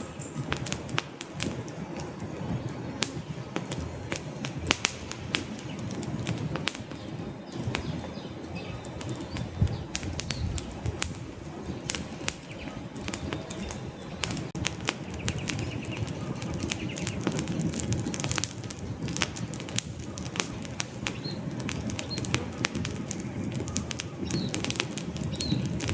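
Wood fire crackling in a fireplace: many sharp, irregular pops and snaps over a steady low rush of burning logs.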